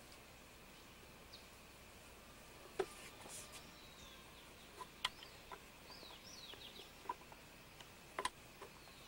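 Faint outdoor quiet with small birds giving short falling chirps, mostly in the middle, and a few sharp clicks scattered through it.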